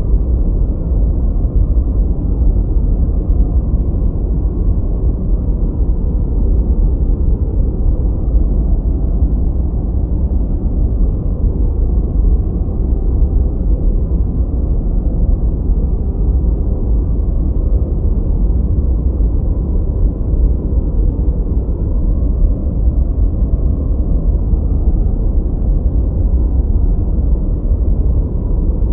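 Steady noise track of the 'white noise' kind, a deep, even rushing sound. It is heavy in the lows with little treble, and it does not change.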